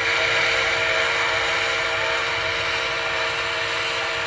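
Sound system of an MTH model Berkshire steam locomotive playing a steam whistle: one long steady blast of a chime whistle, several pitches held together over a hiss.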